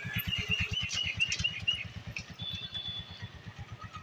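A bird calls a quick run of about eight repeated high notes in the first second and a half, then a short high whistle about two and a half seconds in, over a low, even throb of a small engine running throughout.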